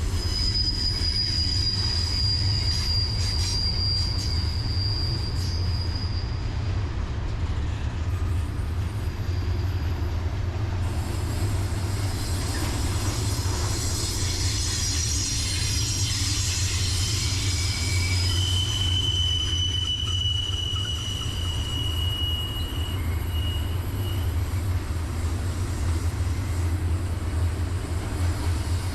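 Freight train rolling past with a steady low rumble, its steel wheels squealing in long, steady high-pitched tones: one for about the first six seconds and a lower one from about two-thirds of the way in.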